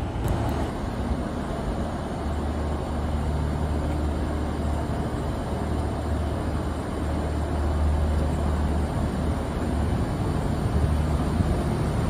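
Train running by with a steady low rumble and an engine drone, with no break.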